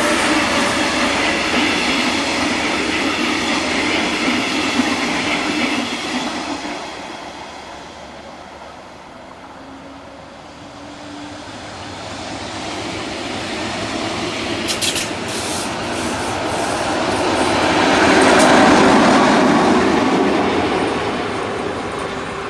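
Trains passing close by: a loud rumble of wheels on rail that fades about seven seconds in, then builds again to a second loud passing near the end. A few short high-pitched squeaks come from the wheels about fifteen seconds in.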